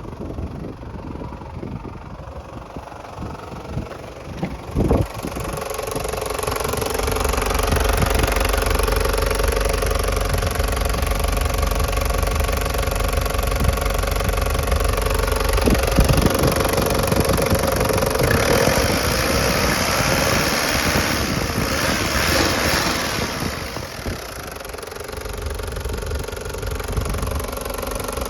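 Toyota Hiace KZH106's diesel engine idling steadily with its diesel clatter. There is a single sharp click about five seconds in, and the sound turns brighter and harsher for a few seconds past the middle.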